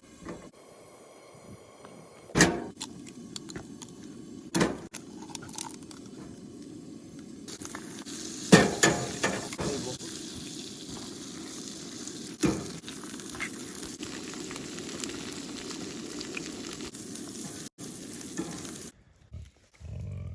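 Food sizzling as it fries in a pan, the sizzle growing louder about halfway through. Several sharp clinks of a utensil against the pan come through it.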